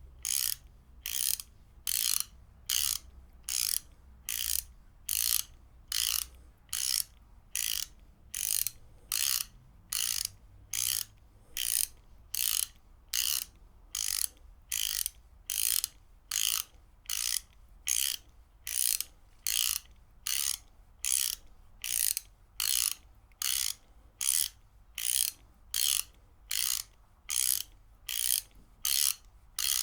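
Ratchet wrench being worked back and forth, its pawl clicking over the gear teeth in short, evenly repeated bursts a little more than once a second.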